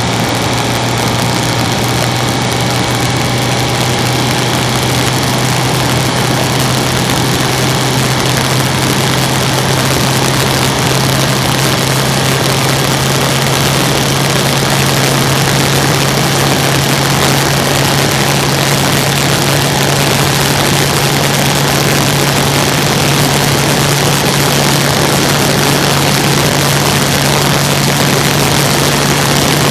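Citroën C3's 1.4 HDi DV4TD four-cylinder turbodiesel running steadily, with a strong even hum under a loud rushing noise, the level rising slightly.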